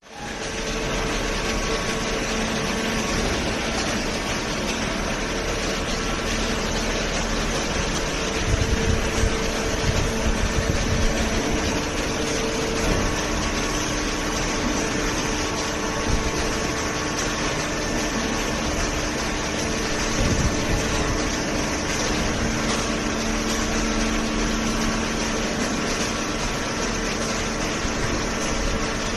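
Automatic hydraulic paper baler running: a steady mechanical hum with faint steady tones, and a few light knocks about eight to eleven seconds in.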